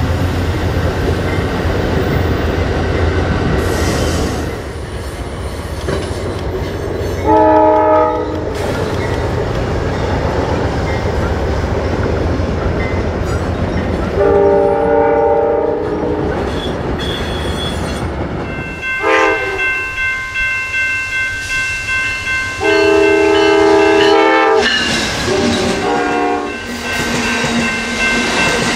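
Passenger trains passing, first with a low rolling rumble of wheels on rail. Then come several blasts of a locomotive's multi-note air horn, about five in all, the longest near the end.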